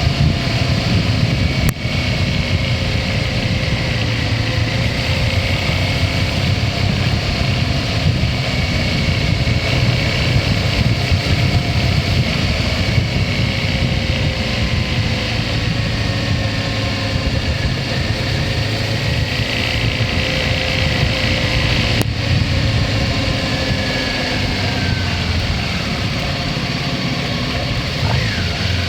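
Motorcycle engine running steadily, its pitch drifting slowly up and down with the throttle, over a continuous rumble.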